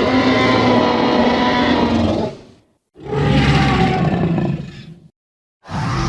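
Synthesised dinosaur roar sound effect: two long, rough, deep roars, the first ending about two and a half seconds in and the second running about two seconds, with a third beginning just before the end.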